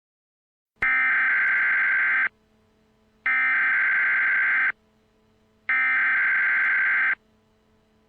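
Emergency Alert System SAME header: three identical loud bursts of screeching digital data tones, each about a second and a half long, with about a second between them. They encode the tornado warning that is about to be broadcast.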